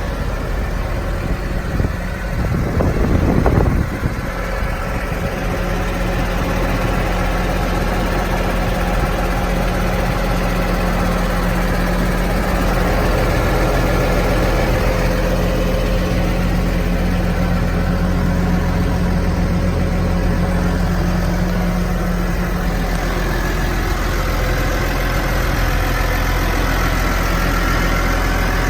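New Holland T6070 tractor's six-cylinder diesel engine idling steadily, with a brief louder rush of noise about three seconds in.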